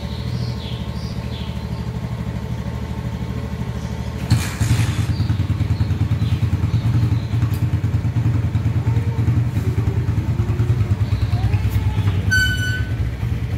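Motorcycle engine idling with a steady throb. About four seconds in, the engine sound steps up sharply after a brief burst and runs on louder. A short high beep sounds near the end.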